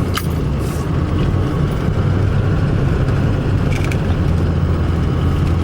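Steady low rumble of a vehicle being driven, heard from inside the cab: engine and road noise with no change in pace, and a couple of faint clicks.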